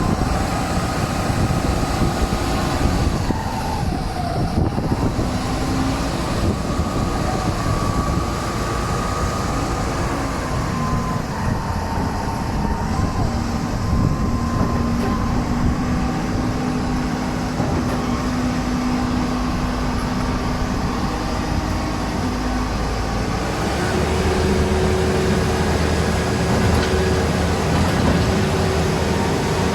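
Self-loading concrete mixer running: a steady machine drone with whining tones that shift in pitch, gliding down about three to four seconds in and stepping up, with a heavier low rumble, about 23 seconds in.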